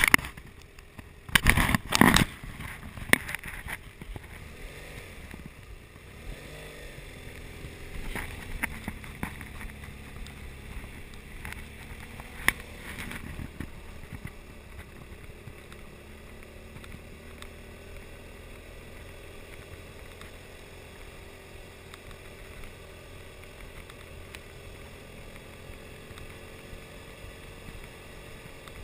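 BMW F800GS parallel-twin motorcycle engine running at low speed, with wind and tyre noise on a dirt road; its pitch rises and falls gently. Several sharp knocks about one and a half to three seconds in, the loudest sounds, and one more about twelve seconds in.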